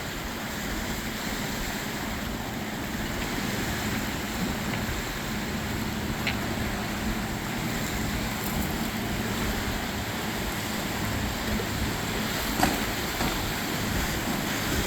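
Motorboat engine running as boats pass on choppy canal water, with wind noise on the microphone; the engine's steady hum grows slightly louder, and a single sharp click comes near the end.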